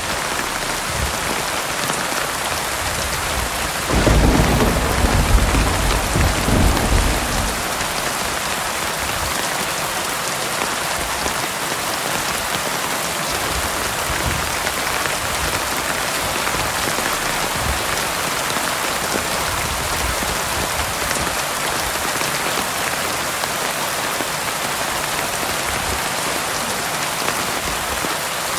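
Heavy rain falling steadily, with a roll of thunder rumbling about four seconds in and dying away by about seven seconds.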